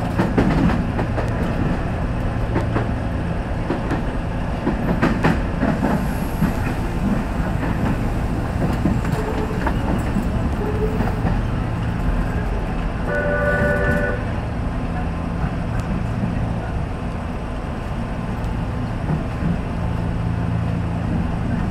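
Nishitetsu electric train running slowly, heard from inside the car: a steady rumble of wheels on rail, with clacks over the points in the first few seconds. About halfway through a brief horn-like tone sounds.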